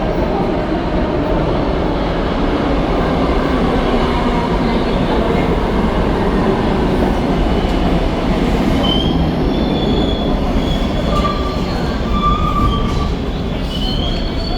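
Kawasaki R62 subway train running steadily into the station, with wheels squealing in short high notes during the second half as it brakes.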